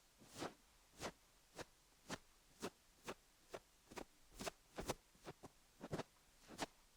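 Soft fluff brushed over a rhinestone-studded dummy-head microphone in short, even strokes, about two faint swishes a second.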